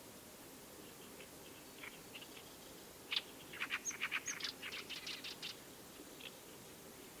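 A small bird chirping: a few faint calls, then a quick run of sharp chirps lasting about two and a half seconds near the middle.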